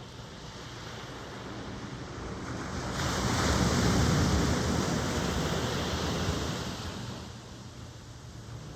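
Ocean surf. One wave builds, breaks with a loud wash about three seconds in, then runs out and fades over the next few seconds, above a steady background wash.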